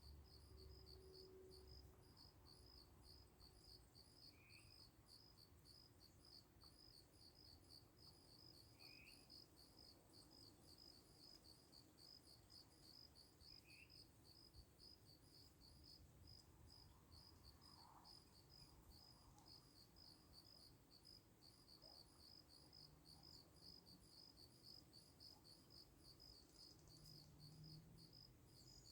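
Faint, steady chirping of a cricket, an even pulse of about two chirps a second.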